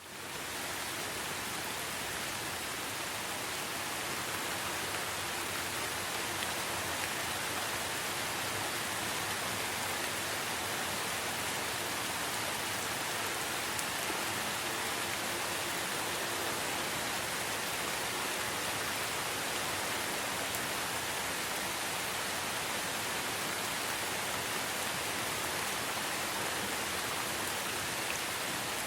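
Steady rainfall in a forest, an even hiss of rain on leaves with fine patter, fading in over the first half second.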